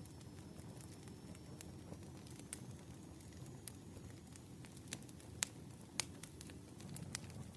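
Wood fire crackling: a low, steady rustle of burning firewood with scattered small pops, and two sharper pops about two-thirds of the way through.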